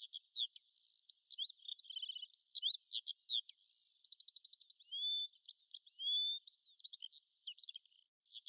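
Songbirds singing continuously: a dense stream of high chirps, rapid trills and rising whistles. There is a brief break near the end.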